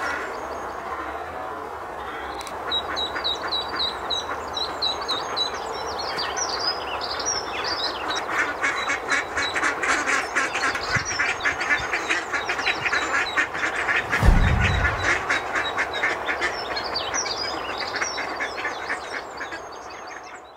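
Mallard hen quacking in a rapid, steady run of calls, with high chirping calls above, as a duckling leaves the nest tube. A dull low thump sounds about two-thirds of the way through and is the loudest moment.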